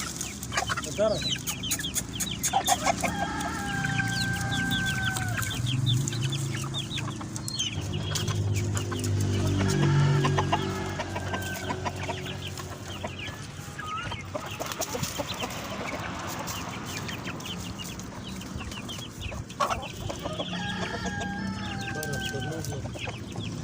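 A flock of chickens clucking and calling, with two long drawn-out calls, one about three seconds in and one near the end. A low drone swells and fades around the middle.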